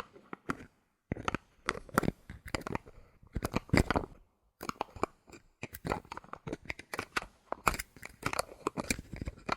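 Bottle caps handled close to the microphone: quick runs of sharp clicks and crackles, broken by short pauses.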